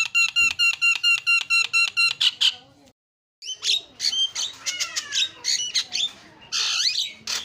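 Javan myna calling: a fast run of identical repeated notes, about six a second, breaks off into a moment of total silence about three seconds in. It is followed by varied harsh chatter, squawks and gliding whistles.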